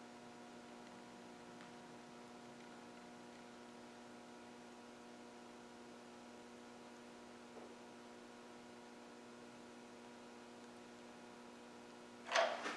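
Faint steady electrical hum made of several even tones, with a sudden knock just before the end.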